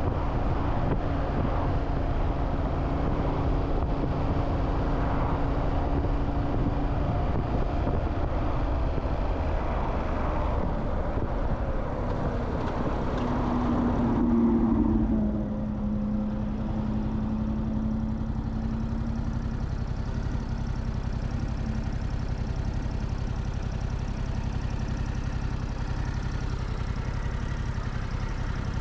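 Motorcycle riding through city traffic with wind and road noise, slowing about halfway through and then idling steadily.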